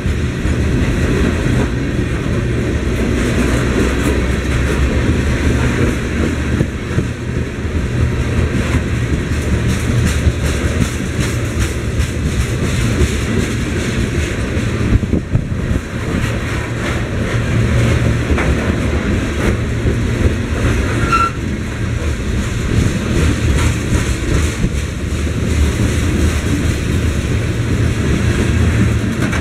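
Covered hopper cars of a freight train rolling past at close range: a steady rolling rumble of steel wheels on rail, with frequent clicking from the wheels.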